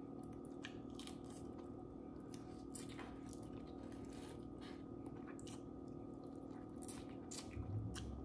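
Close-miked chewing of crab meat: soft, irregular wet mouth clicks and smacks.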